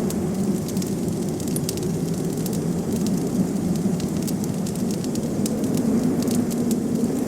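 Wood fire crackling with many small, sharp pops over a steady low rush of blizzard wind.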